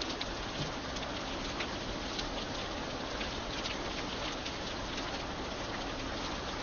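Steady rain falling, a constant hiss with many separate drops ticking sharply through it.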